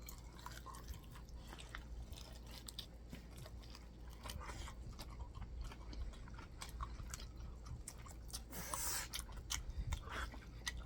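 Faint chewing and biting on a sauced chicken wing: a string of small wet clicks and smacks, with a short breathy hiss about nine seconds in.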